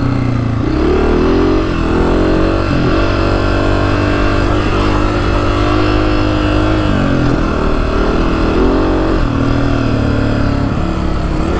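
Honda CRF250F's air-cooled single-cylinder four-stroke engine under way off-road, its note rising under throttle and falling back several times as the rider works the throttle and gears.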